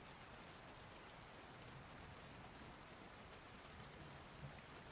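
Faint, steady rain ambience: an even hiss of rainfall with scattered light drop ticks.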